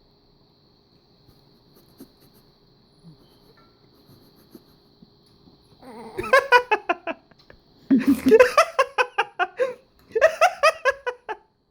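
People laughing hard in three bouts starting about halfway in, each a quick run of short laughs. The first half is quiet apart from a faint steady high whine.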